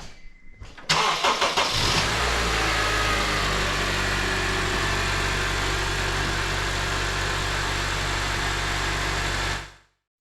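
2010 Honda CR-V engine starting about a second in, then idling steadily: the first start after an oil change, run to circulate the fresh oil until the oil pressure light goes out. It cuts away shortly before the end.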